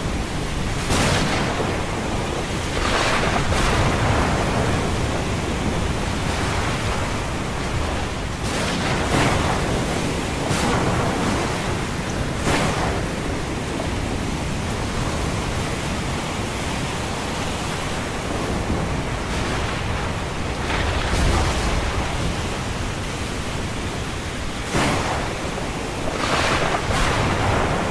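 Ocean surf: a steady wash of waves with brief louder crashes every few seconds at irregular intervals.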